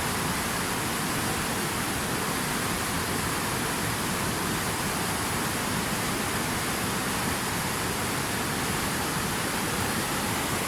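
Water rushing steadily: a dense, even hiss with no single splashes or drops standing out.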